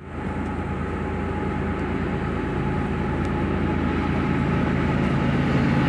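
A train rolling along the tracks: a steady rumble of wheels and engine with a low hum, slowly getting louder.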